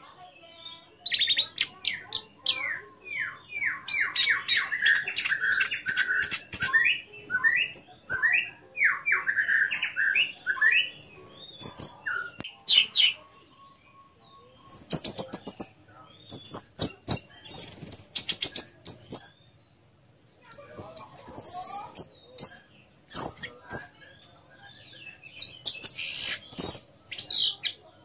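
Orange-headed thrush singing a long, varied song: quick runs of whistled, chattering and trilled notes, in phrases broken by short pauses.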